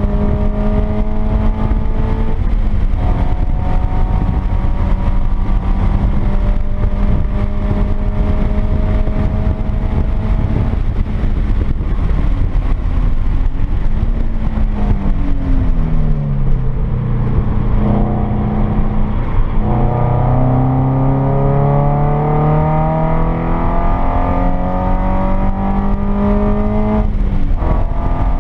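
2013 Subaru BRZ's flat-four boxer engine, fitted with unequal-length headers and a resonated aftermarket exhaust, heard from inside the cabin under hard driving. The revs climb steadily and break about 2.5 and 11 seconds in, fall with short blips in the middle, then climb strongly again and break once more near the end. Tyre and wind noise run underneath.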